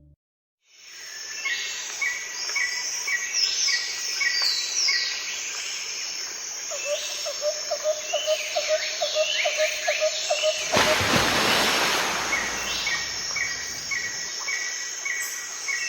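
Many small birds chirping and whistling over a steady outdoor hiss, with a quick run of lower repeated calls in the middle and a loud burst of rushing noise about eleven seconds in.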